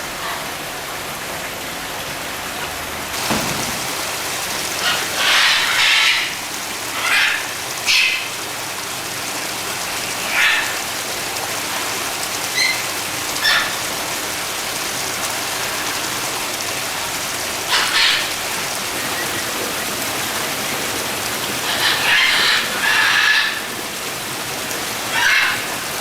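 Steady hiss of falling rain, with short high-pitched sounds breaking through every few seconds.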